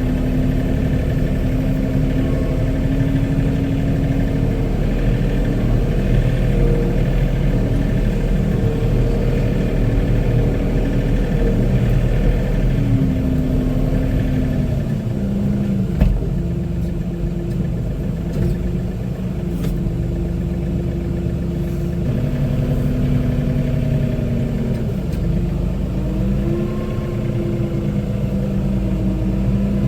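Compact John Deere tractor's diesel engine running steadily, its pitch dropping and then climbing again as engine speed changes, with one sharp knock about halfway through.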